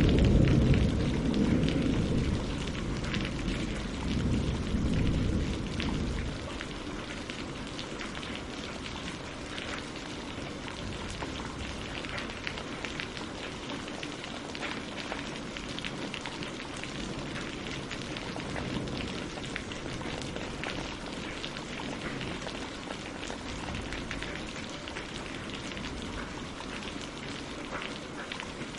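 Steady rain falling on a lake and on tree leaves, a dense hiss with many small pattering drops. A deep rumble of thunder dies away about six seconds in.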